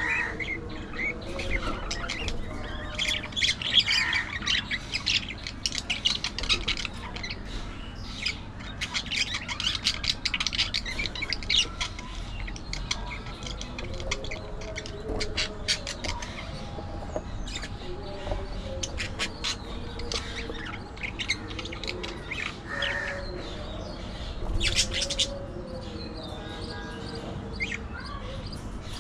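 Budgerigars chattering: a busy, continuous stream of quick chirps and harsh squawks.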